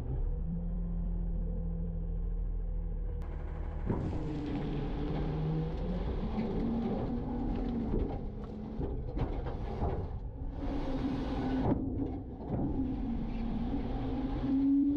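Garbage truck engine running at a steady idle, then revving up about four seconds in, with mechanical clatter and a higher held tone, typical of the engine speeding up to drive the packer hydraulics.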